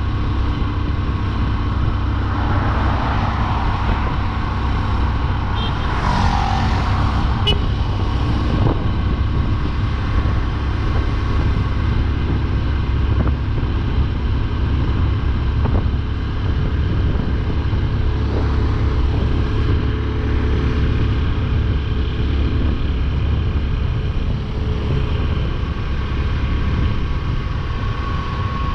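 Motorcycle engine running at a steady cruise with road and wind noise, heard from the rider's seat. A short whoosh about six seconds in falls slightly in pitch, as something passes.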